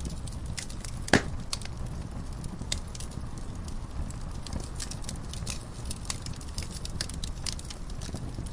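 Wood fire crackling in a fireplace: scattered sharp pops and snaps over a low, steady rumble of the flames, with one loud pop about a second in.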